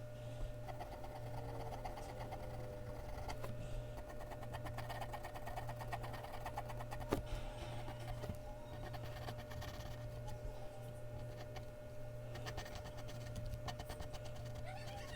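Mechanical pencil scratching over Bristol paper in rapid back-and-forth shading strokes, over a steady low electrical hum.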